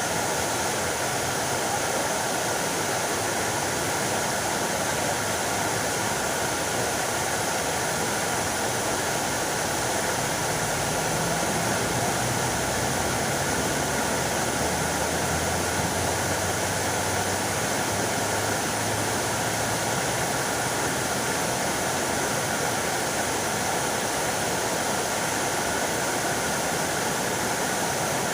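Fountain water splashing steadily, with a faint low hum joining in the middle.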